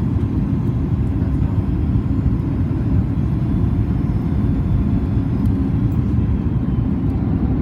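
Steady low rumble of a Boeing 737 MAX 8 heard from inside the passenger cabin: engine and airflow noise, even and unchanging.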